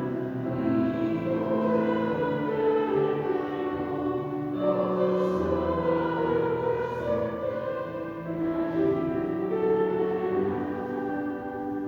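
Choir singing a slow piece in sustained chords that move to new notes every second or two.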